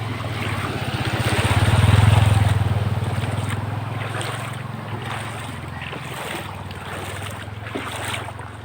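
A motor vehicle driving through floodwater: its engine hum grows louder to a peak about two seconds in and then slowly fades, over the swish and splash of water pushed aside.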